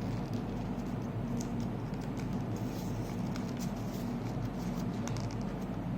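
Thick paper being folded and creased by hand: scattered small crinkles and taps over a steady low hum.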